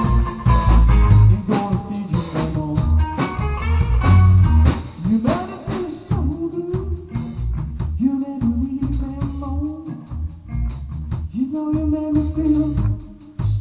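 Live blues trio of electric guitar, bass and drums playing an instrumental break. The lead guitar's notes slide up into held pitches over a steady drum beat and bass line.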